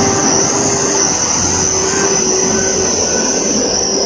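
Heavy vehicle or machinery engine running steadily, a loud drone with a high-pitched whine held over it.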